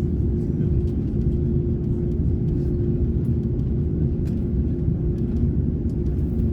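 Steady low rumble of an Airbus A330neo heard inside the passenger cabin, with a constant hum running through it and a few faint ticks.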